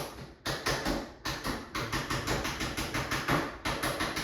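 Rapid runs of sharp taps or clicks, about eight a second, in short bursts separated by brief gaps.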